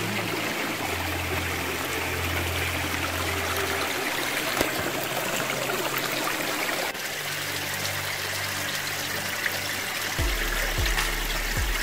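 Running water, a steady rushing, with a slight change in level about seven seconds in.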